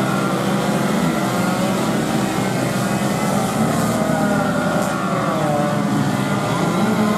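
Small racing motorcycle engines running hard, their pitch rising and falling as they rev up and shift through the gears.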